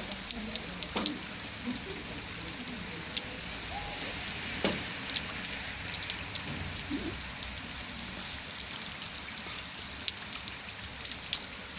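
Steady rainfall, a constant hiss with frequent sharp drips and taps of drops hitting a hard surface.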